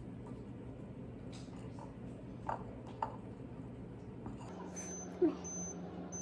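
A few light clicks and knocks over a steady low hum; the hum changes about four and a half seconds in, and a sharper knock follows about a second later.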